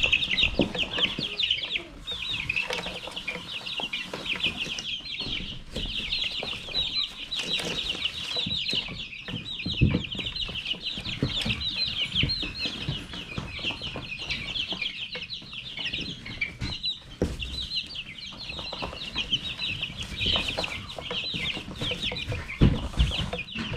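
A flock of young chickens peeping nonstop, many high, short chirps overlapping into a constant chorus. A few soft low knocks sound now and then, one a little louder about halfway.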